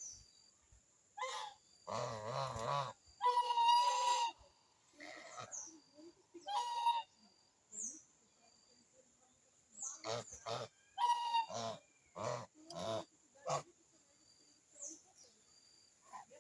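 Birds calling: two clusters of loud, harsh pitched calls, some wavering, with short high chirps between them and a faint steady high tone underneath.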